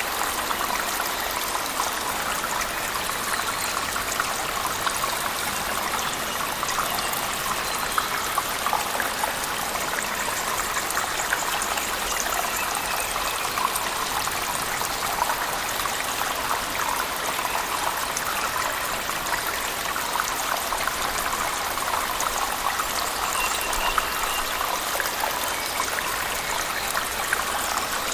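Cave waterfall mixed with heavy rain: a steady rush of falling water, dotted with scattered sharp drips and splashes.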